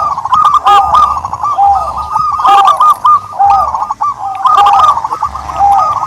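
Turtle doves calling continuously: short, high coos repeating rapidly and overlapping one another.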